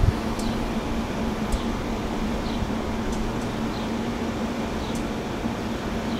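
Passenger train's cars rolling past the platform: a steady rumbling noise with a low hum, and a short high falling chirp about once a second.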